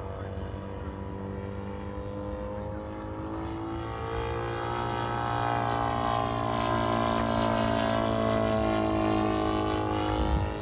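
Small engines of radio-controlled models running, their pitches gliding up and down, growing louder a few seconds in as one comes close, then easing off near the end.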